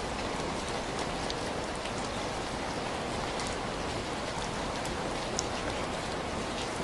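Steady rain with an even hiss, with a few scattered sharp ticks.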